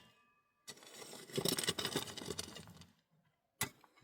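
Scraping, rustling handling noise for about two seconds, then a single sharp click near the end.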